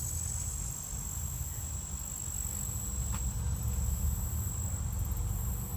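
Insects trilling: one steady, unbroken high-pitched tone, with a low rumble underneath.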